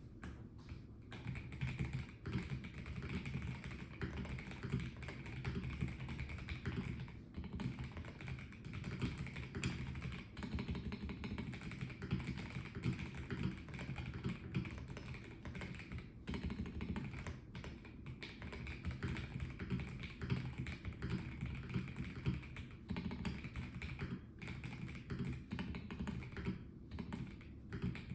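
Continuous typing on a Melgeek Mojo84 mechanical keyboard with a plastic case: a fast, steady stream of key clicks with brief pauses.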